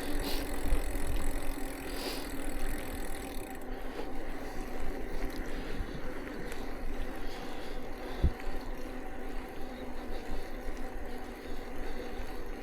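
Bicycle riding along: steady tyre and road noise with wind rumbling on the handlebar-mounted camera's microphone and a faint steady hum.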